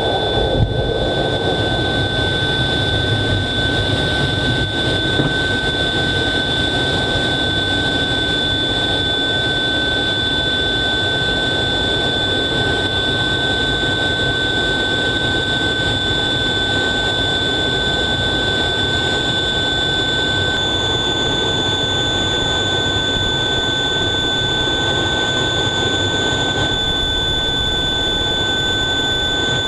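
F/A-18 jet engine noise heard from inside the cockpit: a steady, loud rush with a constant high-pitched whine over it.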